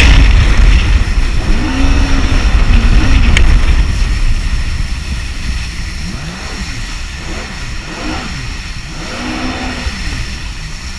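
Jet ski engine revving up and down in a series of short rising-and-falling swells, over a loud low rush that fades after about four seconds.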